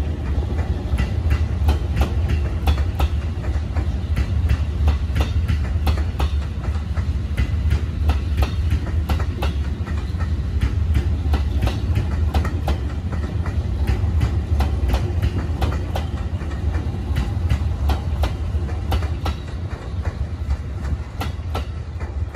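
JR 255 series electric limited-express train rolling past, its wheels clicking over rail joints above a steady low rumble. The sound eases off a little near the end as the last car goes by.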